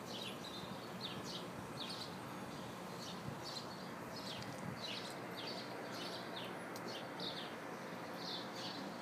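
Small birds chirping over and over, short high chirps that each drop quickly in pitch, a few a second, over a steady background hiss.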